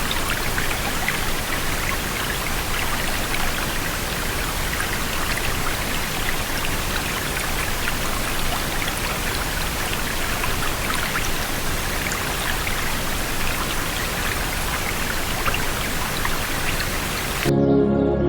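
Steady hiss of falling water, dotted with many small droplet ticks, like rain or a splashing stream. It cuts off abruptly near the end.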